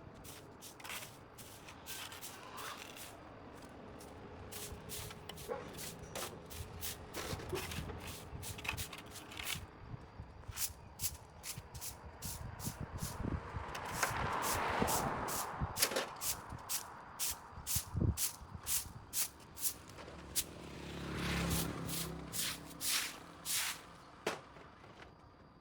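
Repeated short scraping strokes on a pavement surface, coming at an uneven pace of a few a second and getting louder and denser in the second half.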